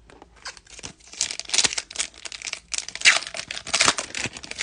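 A baseball card pack's wrapper being torn open and crinkled by hand, an irregular run of crackling rustles that starts about a second in.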